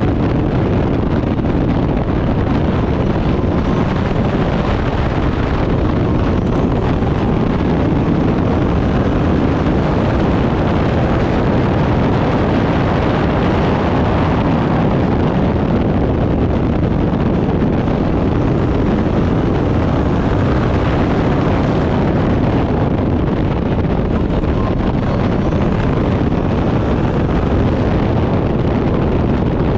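Turbocharged Backdraft Cobra race car running hard on track, its engine a steady loud drone mixed with heavy wind noise on the microphone.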